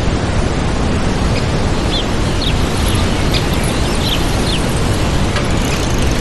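Steady rushing of a waterfall, with small birds giving several short high chirps over it.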